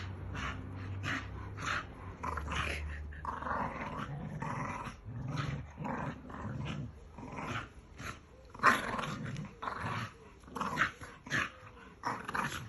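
Two dogs play-fighting and growling, with a low growl over the first few seconds followed by a run of short, irregular snarls and yaps; the loudest comes about nine seconds in.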